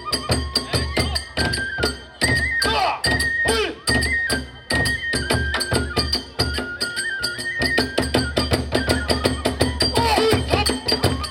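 Kagura ensemble playing fast: a taiko drum beating rapid strokes, a bamboo transverse flute holding a stepped melody, and small hand cymbals ringing.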